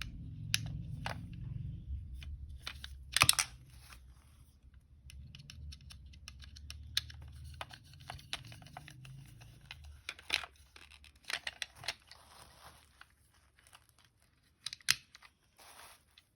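Handling noises: sharp clicks and crinkling rustles, with a loud crackling burst about three seconds in, over a low hum that stops about ten seconds in.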